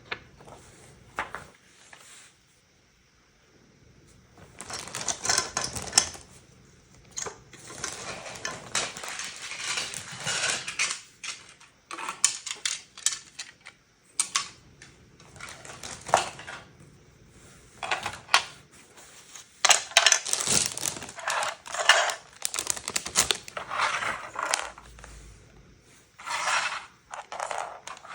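Loose Lego bricks being handled: small hard plastic pieces clattering and clicking against each other in irregular bursts, with a near-silent pause about two to four seconds in.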